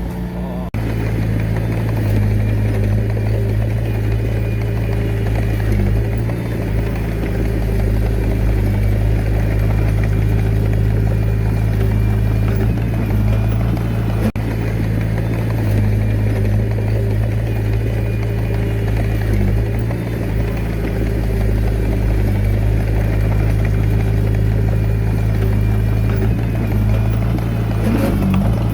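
Diesel engine of a Komatsu D21A mini bulldozer running steadily under work, with a constant low drone throughout.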